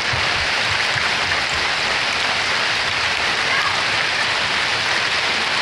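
Hailstorm of mixed small and large hailstones pelting vehicles and the ground: a dense, steady hiss of impacts with scattered low thuds.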